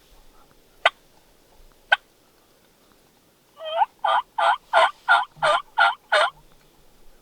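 Wild turkey calling: two sharp clucks about a second apart, then a run of eight yelps at about three a second.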